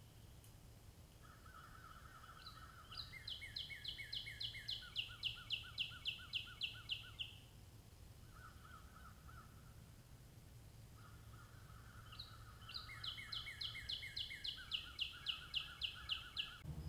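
Several songbirds singing at once in two bouts of fast, evenly repeated whistled notes, each bout lasting a few seconds, over a faint steady low hum.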